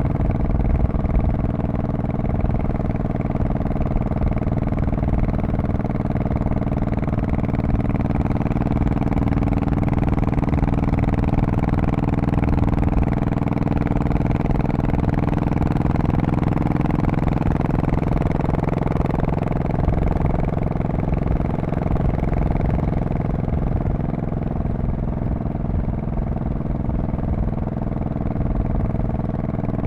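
2002 Honda Shadow Spirit VT1100C's V-twin engine and exhaust running steadily, with small rises and falls in engine speed.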